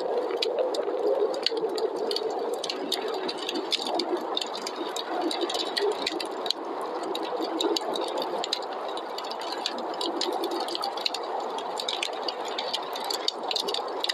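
Wood fire crackling, with many small sharp pops scattered throughout, over a steady rushing of snowstorm wind.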